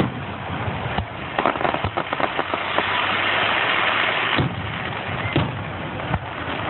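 Fireworks going off: several sharp bangs, a quick run of crackles, and a hissing crackle that swells in the middle and then fades.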